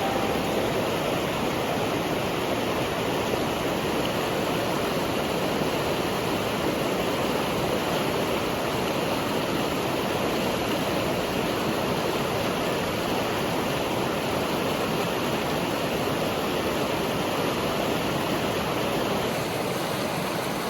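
Rushing river water, a steady, even rush.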